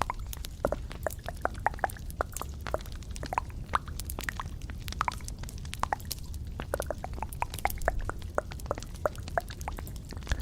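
Close-miked ASMR trigger sounds: a steady patter of small, irregular wet clicks and pops, several a second.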